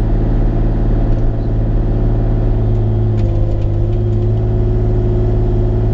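A Bobcat E35 mini excavator's diesel engine runs steadily. Its note shifts slightly about three seconds in.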